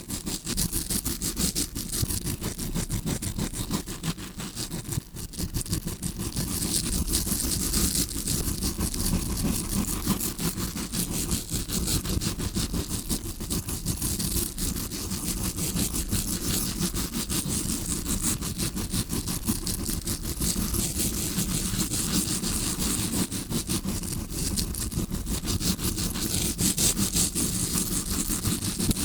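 Tawashi scrubbing brush scratched rapidly and continuously against a microphone, close and bristly, imitating ear cleaning as heard from the eardrum.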